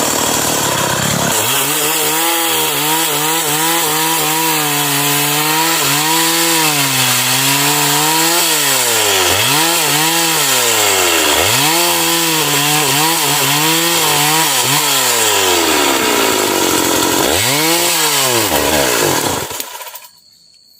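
Stihl MS 381 two-stroke chainsaw cutting wood. The engine note dips again and again as the chain bogs down in the cut, then climbs back as it recovers. The sound cuts off abruptly just before the end.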